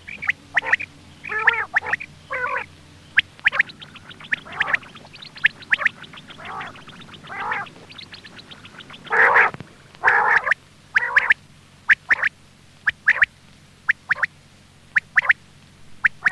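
Quail calling, used as a hunting lure: short calls repeated at uneven intervals, with a quick run of rapid clicking notes in the middle, over a faint steady hum.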